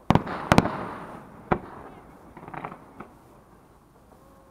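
Fireworks display: aerial shells bursting with loud bangs, two in the first half second followed by a rolling rumble, then a sharper bang about a second and a half in and a few fainter pops that die away toward the end.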